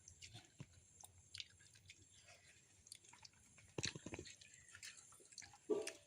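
Faint eating sounds: soft chewing and small mouth and hand clicks as someone eats a meal, with a couple of sharper clacks about four seconds in and a short louder sound near the end.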